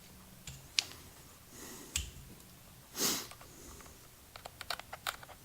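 Light clicks and taps from handling meter test leads and wiring, with a quick run of small clicks near the end, and a short breath-like rush about three seconds in.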